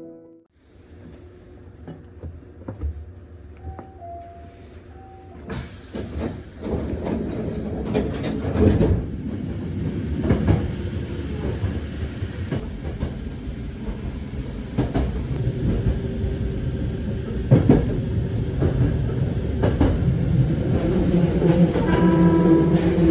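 Train running along the rails: a steady rumble that grows louder a few seconds in, with scattered knocks and clacks, and a brief high two-note tone about four seconds in.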